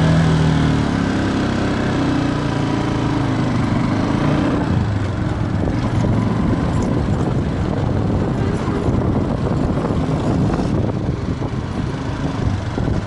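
Viper V250C cruiser motorcycle engine pulling away and accelerating, its pitch shifting over the first few seconds, then running steadily under way with wind noise on the microphone.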